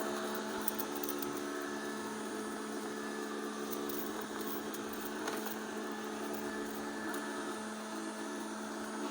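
TOTAL robot vacuum cleaner running, with a steady motor hum and whir, and a couple of faint clicks.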